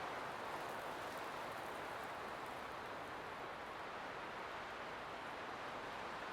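Light wind blowing steadily: an even, soft rushing with no gusts.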